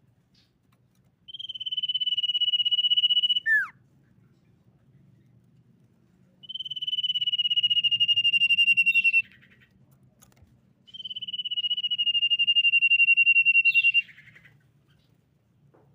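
Common iora whistling: three long, slightly falling whistles a few seconds apart. The first ends in a quick downward slur.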